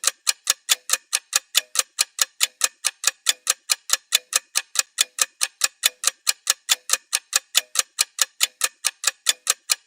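Rapid, even ticking of a clock-style timer sound effect, about five ticks a second, marking the rest interval between sets.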